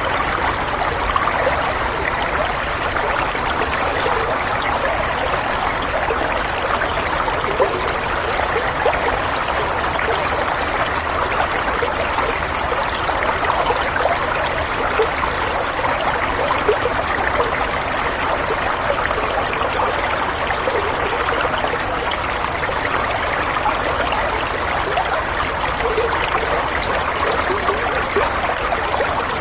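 Running water: a stream trickling and babbling steadily, with small splashes.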